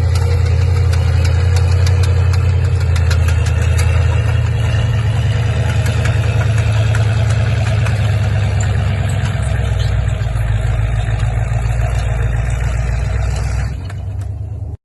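Linn tractor's engine running steadily with a heavy low drone while pulling a drag. It eases off slightly near the end, then cuts off abruptly.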